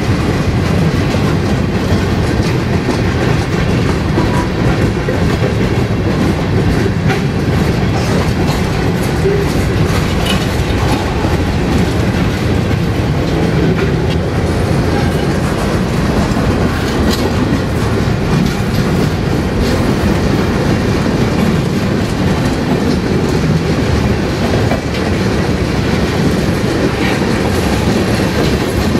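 Freight cars of a mixed manifest train (covered hoppers, boxcars, tank cars) rolling steadily past close by. The wheels rumble and clatter over the rails.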